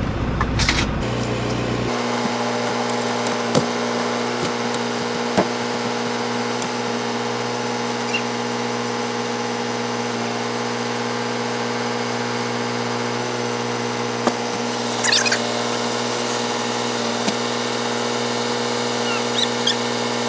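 Steady hum of the semi truck's idling engine heard inside the cab, with a few light knocks and clicks as things are moved around.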